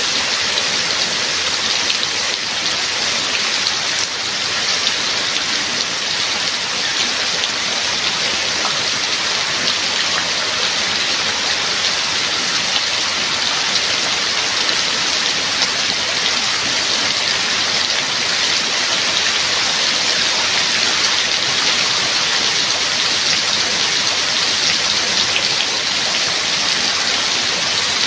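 Steady heavy rain falling, with a dense hiss of many drops striking surfaces.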